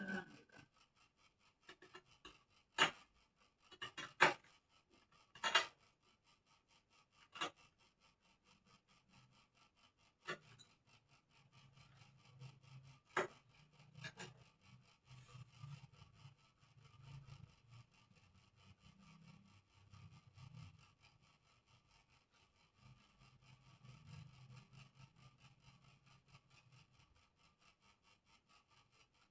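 Hand smoothing of a bird cage's parts: a handful of sharp clicks or taps in the first half, then faint, irregular rubbing strokes from about a third of the way in.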